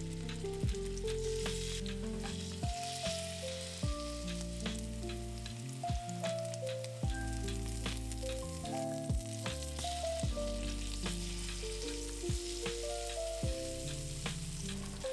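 Food sizzling as it fries in a hot pan, a steady hiss with scattered short clicks, under background music with held notes and a bass line.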